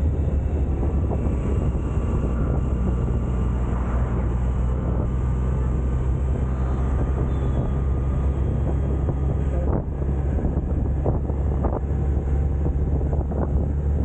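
Suzuki Hayabusa's inline-four engine running at a steady pitch while the bike is ridden, with wind buffeting the microphone.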